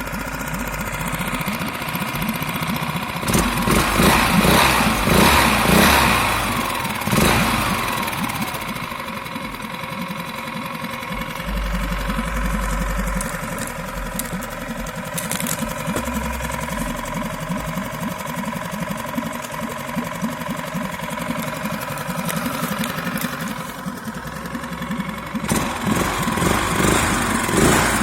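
Veterok two-stroke outboard motor, a hybrid build with its exhaust routed into the water, running. It gets louder for a few seconds about three seconds in, settles to a steadier, quieter run, then rises again near the end.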